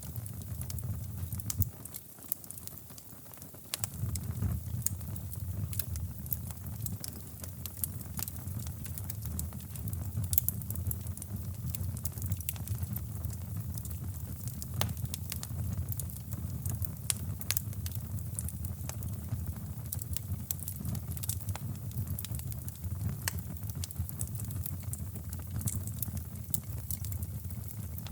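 Fireplace fire crackling, with frequent sharp snaps and pops over a steady low rumble of brown noise. The rumble drops away for a moment about two seconds in.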